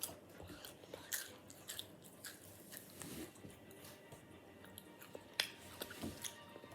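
Chips being bitten and chewed, with irregular crisp crunches.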